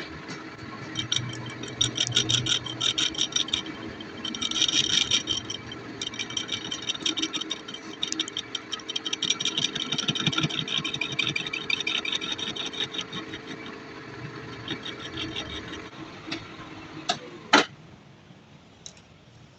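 Metal lathe running with a steady motor hum under a dense, fast crackle from the metalwork on the part. The crackle stops about three-quarters of the way through, leaving the machine running, and one sharp metallic clank follows near the end.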